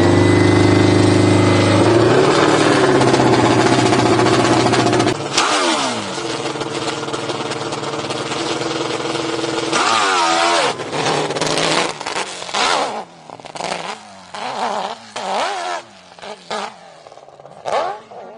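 Dirt bike engine running at a steady high note, then revving up and down, and in the second half blipped in short repeated bursts with quieter gaps between.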